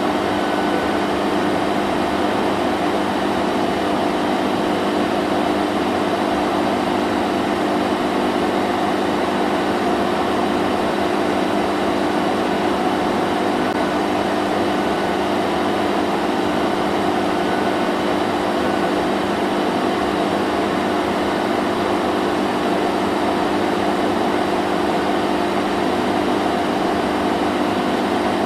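Vacuum cleaner running steadily, a constant motor hum and rushing air with no change in pitch or level.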